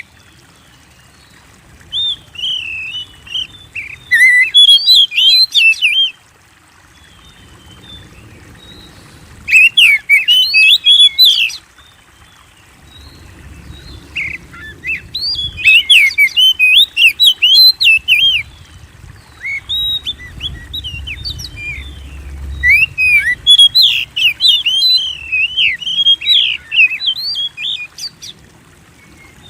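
Oriental magpie-robin (kacer) singing loudly in bursts of rapid, varied whistled phrases with sweeping notes, broken by pauses of a few seconds, the longest burst running for over ten seconds in the second half.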